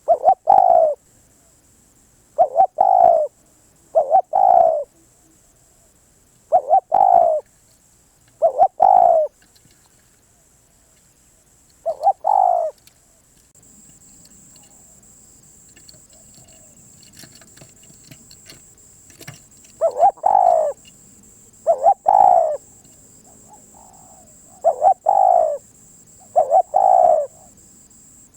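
Spotted dove cooing: short, repeated coos, each with a quick lead-in note before the main coo, coming about every two seconds, with a pause of several seconds midway.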